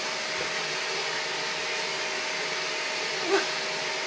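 Vacuum cleaner running steadily with an even hum. About three seconds in there is one brief, short, higher sound.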